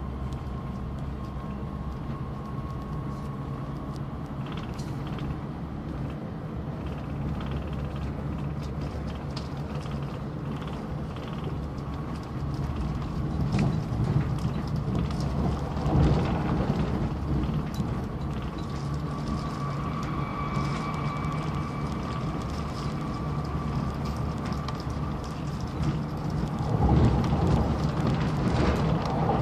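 Cabin running noise of an Airport Railroad (AREX) express train at speed: a steady rumble of wheels on rail with a faint steady whine in the second half. It swells louder a couple of times and most of all near the end, as the train runs close past trackside walls.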